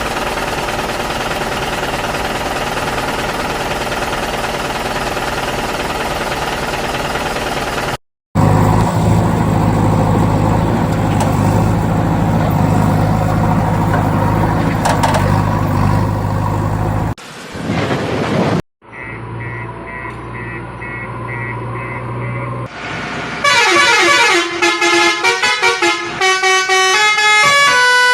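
A run of vehicle sound effects: a steady engine-like drone, then after a sudden cut a loud, sustained horn with steady low tones. Near the end comes a melodic tune of quickly stepping notes, like a musical horn.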